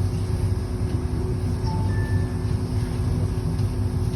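Interior of a city bus under way: steady engine and road rumble with a constant drivetrain hum, and a short faint beep about two seconds in.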